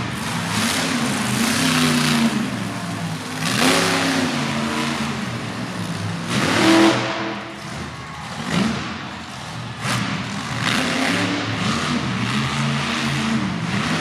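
Monster truck's supercharged V8 engine revving hard, its pitch climbing and falling again and again, with a few sharp surges of full throttle, the strongest about halfway through.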